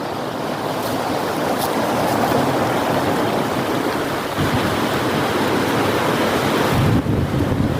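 Heavy rain pouring down in strong wind, a loud steady rush, with wind buffeting the microphone more heavily near the end.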